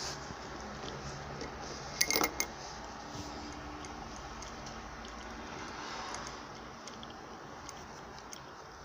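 Cat lapping water from a mug: faint, fine ticks, with a short cluster of louder sharp clicks about two seconds in.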